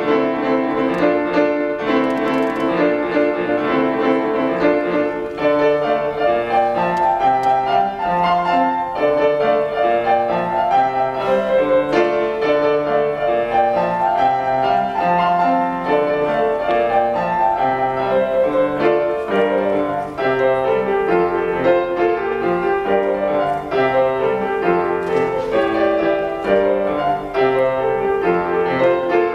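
Solo acoustic piano playing a fast, busy pop-jazz arrangement with dense chords and runs.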